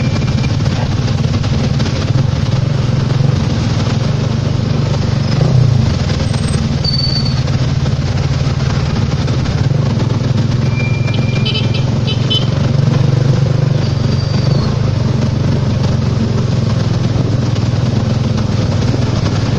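Motorcycle engine of a tricycle (motorcycle with sidecar) running steadily under way, heard from the sidecar, with a few brief high-pitched chirps partway through.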